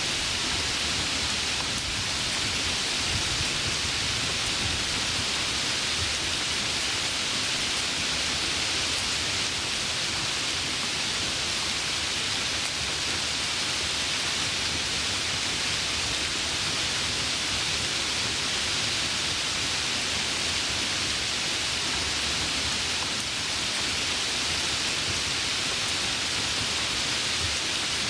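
Heavy rain falling steadily, an even hiss with no breaks, with a faint low rumble in the first few seconds.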